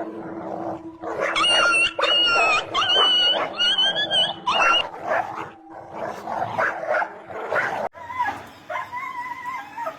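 A dog crying out in a run of long, high-pitched yelps, then shorter yips and a whine near the end.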